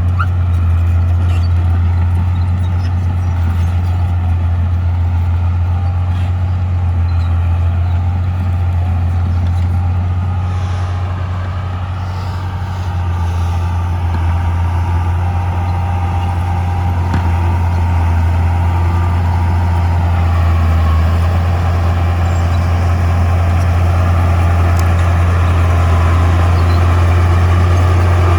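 Heavy earthmoving machinery's diesel engine running steadily with a deep drone. It eases off slightly about twelve seconds in, then builds again toward the end.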